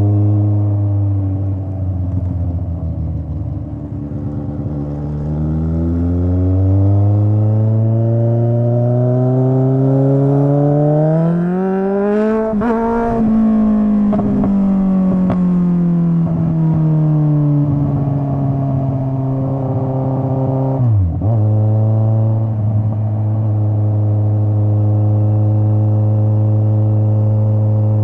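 Straight-piped Kawasaki Z900 inline-four motorcycle engine under way. The revs drop off, then climb steadily in one long pull for about seven seconds, ease back down, dip briefly about three quarters of the way through, and then hold a steady note.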